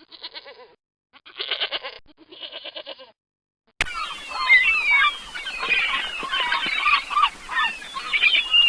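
An animal bleats three times, each a quavering call of under a second. Just under four seconds in it cuts abruptly to a flock of birds calling loudly over one another.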